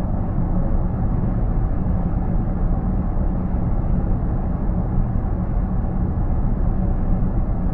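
Steady road and tyre rumble heard inside a car's cabin while it cruises on an expressway at about 110 km/h, with a faint steady hum underneath.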